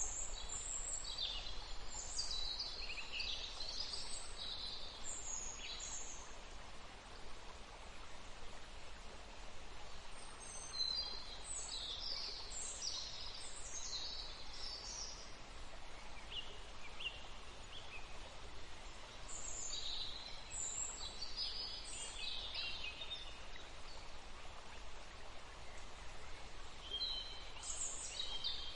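Steady rush of flowing water, with small birds chirping in several short bouts of high-pitched calls over it.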